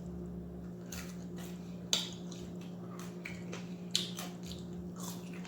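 Close-up eating sounds: food dipped in ranch being bitten and chewed, with scattered crunchy clicks, the sharpest about two and four seconds in.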